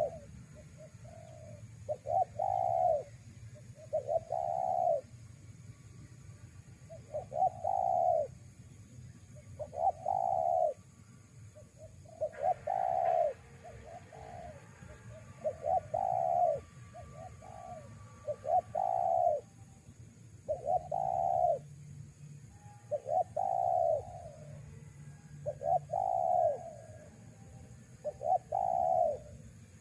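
Spotted dove cooing over and over, a phrase about every two seconds, often a short note leading into a longer coo.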